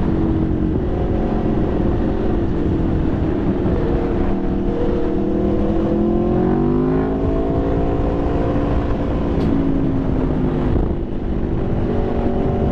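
Aprilia Tuono V4's V4 engine running at low revs in slow riding. The revs climb gently about five seconds in and ease back down a few seconds later.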